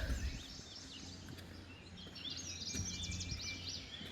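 Small birds chirping in quick high series, starting about halfway through, over a faint steady low background hum.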